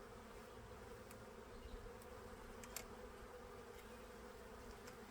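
Faint, steady hum of honeybees from an opened colony, with a light click or two, one about midway.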